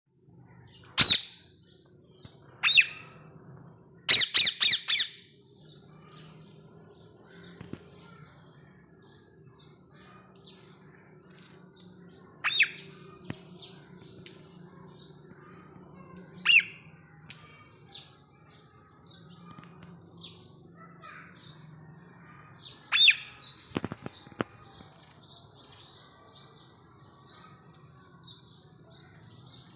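Green Indian ringneck parakeets calling: loud harsh screeches at intervals, with a quick run of about five about four seconds in, over softer high chattering chirps that grow busier in the last several seconds.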